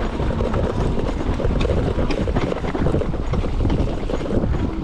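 Wind rumbling on the microphone over an e-bike rolling along a rough dirt trail, with frequent small rattles and knocks from the bike and tyres.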